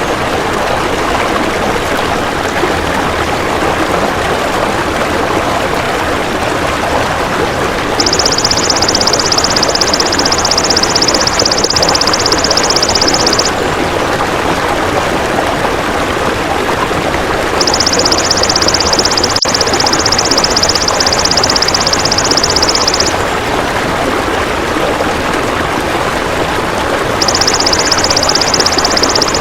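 An insect, the 'belalang emas' (golden grasshopper) of bird-training recordings, giving a high, even buzzing trill in three bursts of about five seconds each, with pauses between them. Under it runs a steady rushing noise.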